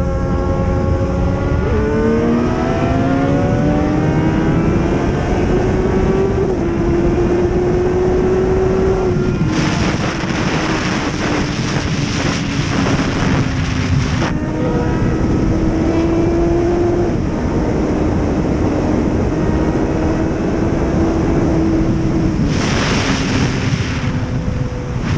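Racing motorcycle engine running under way, its pitch climbing with the revs and stepping down at gear changes early on, then holding fairly steady. Two stretches of loud rushing noise, about ten seconds in and again near the end, ride over the engine.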